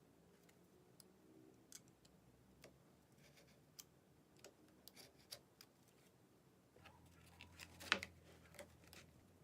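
Faint, scattered small ticks and taps of handwork on the leather sheath and its brass stud hardware, with one sharper click about eight seconds in.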